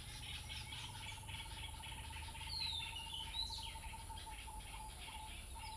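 Birds chirping and calling, over a long, even, rapid trill, with a few quick descending whistles about two and a half and three and a half seconds in.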